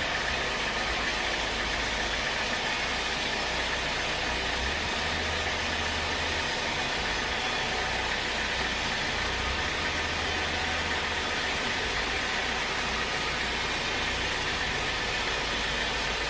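Sawmill machinery running steadily: a continuous even noise with a low drone underneath, unchanging throughout.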